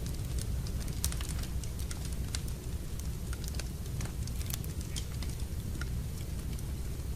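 Wood fire burning in a fireplace: irregular sharp crackles and snaps over a steady low rumble of the flames.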